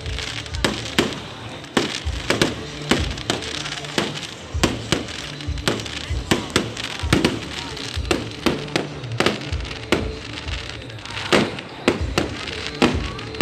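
Fireworks display: a dense, irregular string of aerial shell bangs and crackles, several a second, with music playing underneath.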